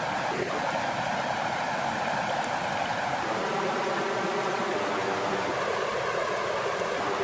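Flowing water, a steady, even babble with no breaks.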